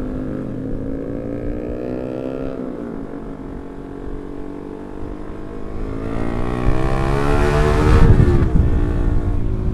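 Yamaha R15 V3 single-cylinder motorcycle engine under way: its note eases off, then climbs steadily as it accelerates, loudest with a rush of noise about eight seconds in before dropping away.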